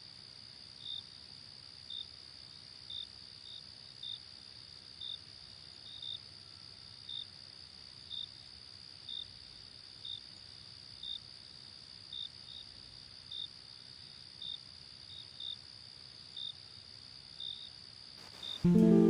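Insects calling: a steady high-pitched trill with a separate short chirp repeating roughly every three-quarters of a second, slightly unevenly. Acoustic guitar music comes in loudly near the end.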